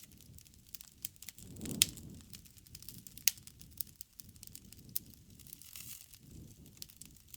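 Wood fire crackling, with irregular sharp pops and snaps over a low rumble; the loudest pop comes about two seconds in.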